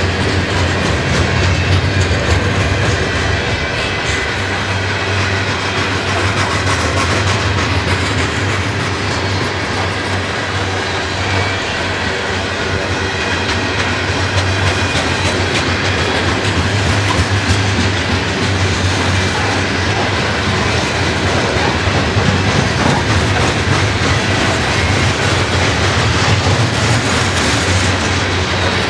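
Covered grain hopper cars of a freight train rolling steadily past: a continuous rumble of steel wheels on the rails with clickety-clack over the rail joints.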